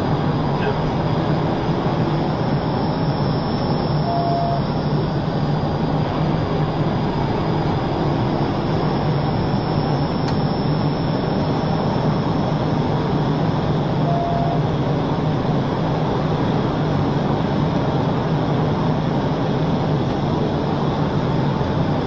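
Steady, unbroken road and engine noise of a vehicle driving at speed, strongest in the low range. Two short faint beeps sound about ten seconds apart.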